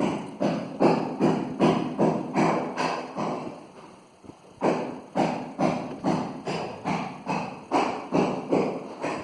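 Steady hammering: evenly spaced blows, about two and a half a second, each with a short ring-out, pausing for about a second near four seconds in before carrying on.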